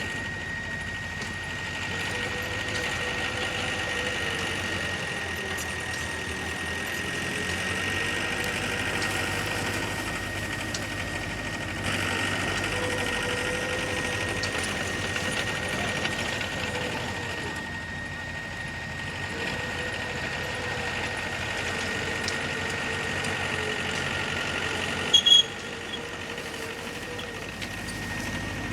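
Heavy construction machinery's diesel engine running steadily, with a constant high whine over it. A brief, loud, sharp sound near the end.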